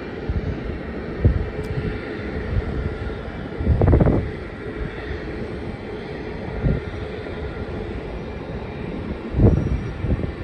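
Steady rumble of jet airliner engines at an airfield, with gusts of wind buffeting the microphone about four seconds in and again near the end.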